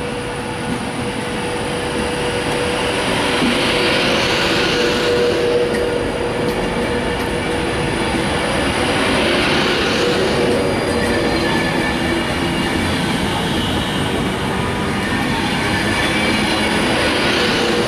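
Class 390 Pendolino electric train pulling out and gathering speed, growing louder, with a steady whine early on and swells of hiss from the wheels about every five or six seconds as the carriages roll past.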